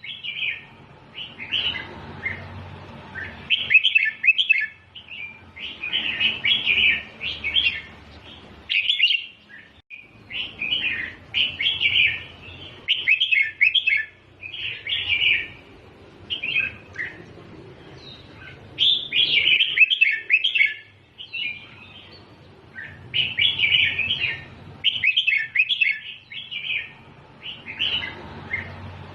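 Red-whiskered bulbul singing: bursts of short, quick warbled phrases, one every second or two with brief pauses between them.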